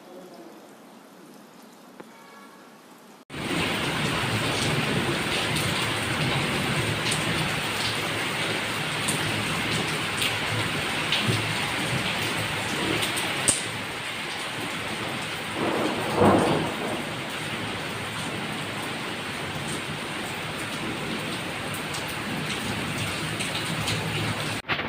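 Heavy rain falling steadily, setting in abruptly about three seconds in after a quieter stretch. About 16 s in, a brief louder sound rises out of the rain.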